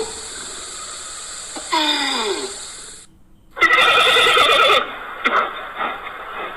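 Animal calls: a call falling in pitch about two seconds in, then after a sudden break a louder, quavering call lasting about a second, followed by a few short sounds near the end.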